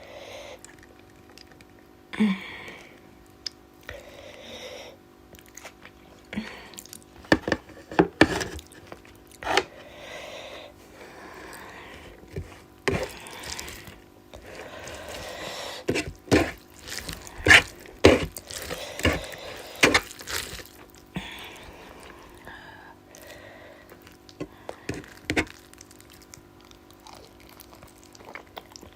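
Close-up eating sounds of rice with fish curry: wet squishing and mouth smacking, with many sharp clicks and knocks scattered irregularly throughout.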